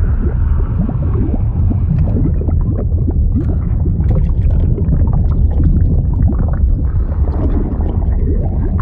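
Liquid sound effect: a deep, steady rumble of churning fluid, dense with short bubbling blips that slide up and down in pitch.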